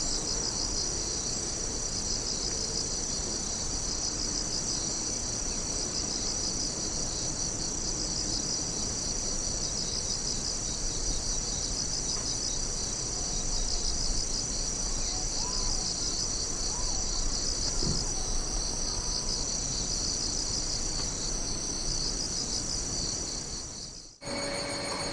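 Chorus of singing insects: a steady, high chirring with a fast pulsing trill. It cuts off abruptly about a second before the end, giving way to a different steady sound.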